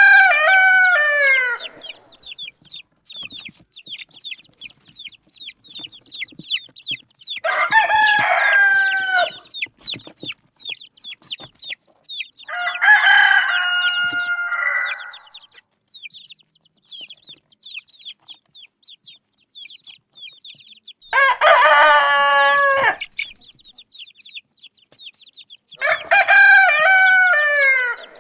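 Roosters crowing: five long crows spaced a few seconds apart, one of them with a different pattern from the rest. A steady stream of rapid high chirps runs between the crows.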